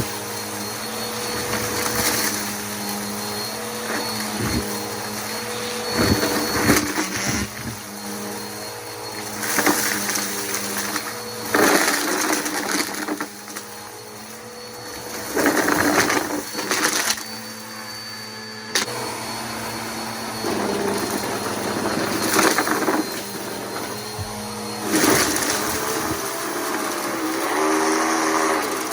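Bissell PowerForce Helix upright vacuum cleaner running with a steady motor hum and a faint high whine, with irregular louder surges every few seconds as it is worked over the floor.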